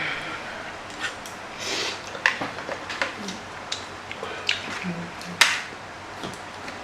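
Eating sounds from a mukbang of spicy instant noodles: scattered sharp clicks and smacks, the loudest a little over five seconds in, with a couple of brief low vocal hums just before it.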